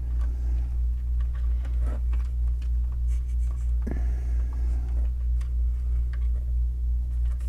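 Steady low electrical hum, with faint small taps and scrapes of a soldering iron and solder being worked at a model railway rail joint, and a soft knock about four seconds in.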